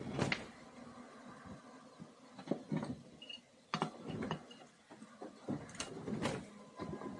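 Scattered light clicks and taps of small metal carburetor parts and hand tools being handled during disassembly of an S&S Super E carburetor: about seven or eight separate short knocks spread over several seconds.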